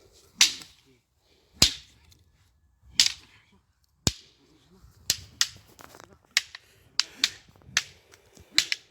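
Fighting sticks clacking against each other in sparring: sharp, loud strikes, spaced over a second apart at first, then coming quicker in pairs and short runs from about halfway through.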